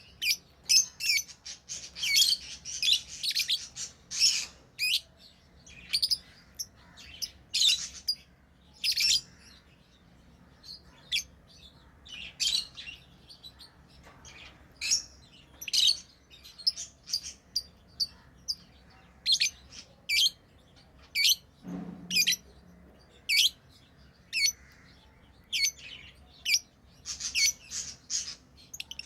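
Pet lovebirds chirping: many short, sharp, shrill chirps. They come in dense flurries at the start and again near the end, sparser in between, with one brief low thud about two-thirds of the way through.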